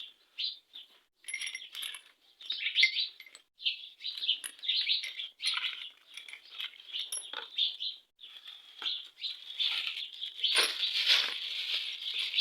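Small birds chirping continually, with a few light metallic clinks of tools or engine parts.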